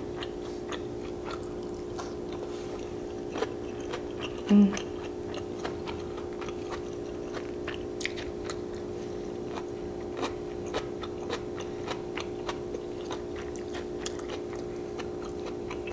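Close-up chewing of a mouthful of japchae glass noodles and vegetables, with scattered small wet clicks and a short "mm" about four and a half seconds in, over a steady low background hum.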